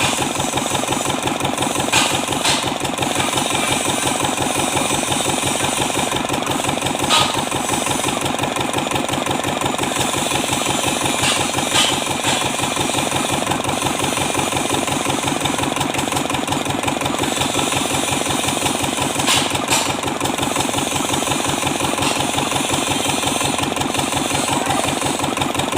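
Kubota Z751 two-cylinder diesel engine running steadily at idle, with a few brief sharp clicks over it.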